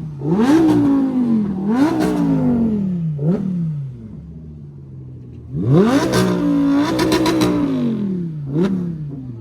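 A car engine being free-revved at a standstill. It gives two quick blips that rise sharply and sag back, then a short blip, and a few seconds at low revs. After that comes a longer rev held for about two seconds with a few sharp pops near its top, and a last short blip.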